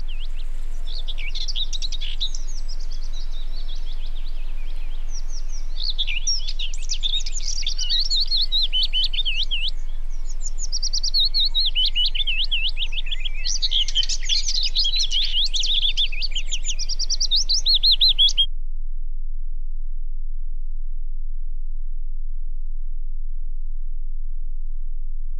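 A songbird singing in rapid, warbling high twittering phrases over a steady low hum. The birdsong cuts off abruptly about eighteen seconds in, leaving only the hum.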